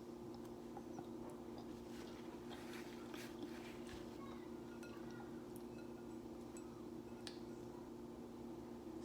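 Faint eating sounds at a table: scattered small clicks and clinks, with a denser crackly patch about two to three and a half seconds in, over a steady low hum.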